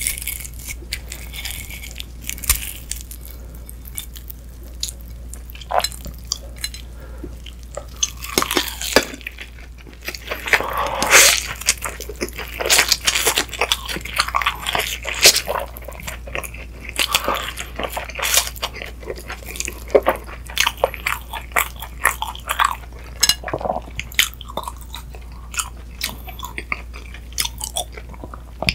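Close-miked chewing and crunching of a crispy Korean green-onion pancake (pajeon): wet bites with crisp crackles. The sound is sparse at first and grows louder and denser about a third of the way in.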